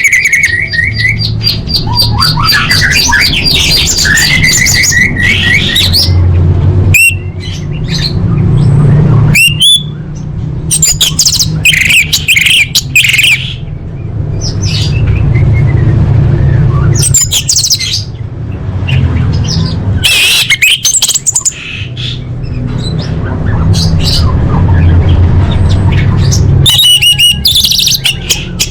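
Female orange-headed thrush calling, repeating short chirps, whistled notes and harsh squawk-like calls, over a steady low rumble. This is the female's call to a male, played as a lure to set a silent male singing.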